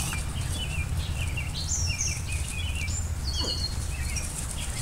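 Small birds chirping and twittering in quick short calls, over a steady low rumble.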